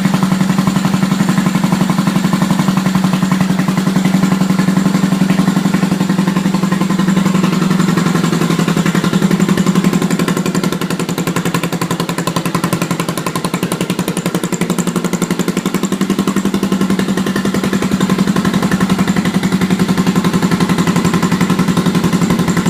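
Yamaha SR single-cylinder four-stroke motorcycle engine running at idle with a steady, even beat, on its first start after the build. The idle wavers a little, rising briefly and then sagging for several seconds midway before picking back up.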